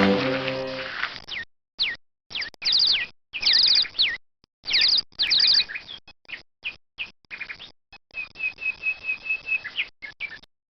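High, bird-like chirps: repeated whistled notes that slide quickly downward, some in quick pairs or triplets, then a fast run of short notes on one pitch near the end.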